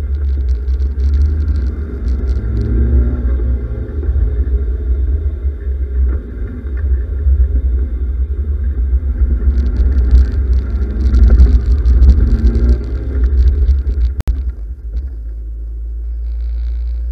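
Westfield Sei's 1.3 Ford crossflow four-cylinder engine revving up and down as the car is driven hard through a slalom, heard from the open cockpit. Near the end the engine note drops to a quieter, steady idle as the car stops.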